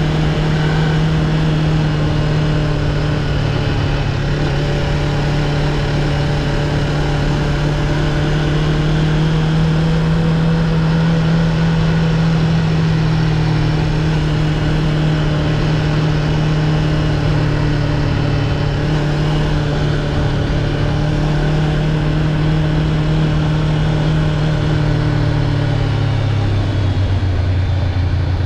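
2015 Honda CB500X's parallel-twin engine running steadily at cruising revs under a wash of riding noise. Near the end the engine note drops as the revs fall.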